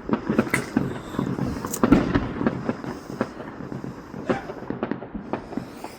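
Fireworks going off: an irregular string of bangs and crackles, busiest in the first half and thinning out towards the end.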